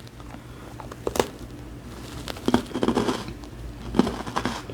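Chocolate bourbon biscuit being bitten into and chewed close to the microphone: a few short, scattered crunches and mouth sounds.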